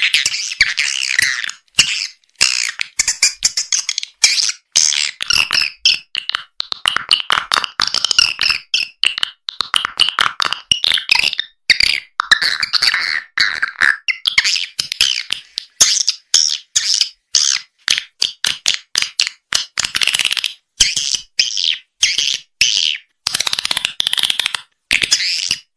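Swiftlet call recording of the kind played to lure swiftlets into a nest house: rapid, high-pitched chittering twitters in quick bursts with brief gaps.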